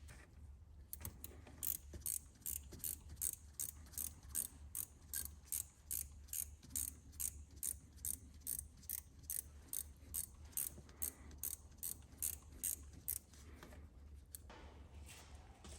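Ratchet wrench turning a bolt, its pawl clicking in an even rhythm of two to three clicks a second for about twelve seconds, then stopping.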